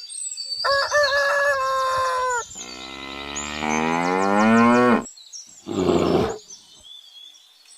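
A cow mooing: one long moo that rises in pitch, about three seconds in. It is preceded by a shorter, higher-pitched animal call, and a brief noisy snort-like burst follows near the end.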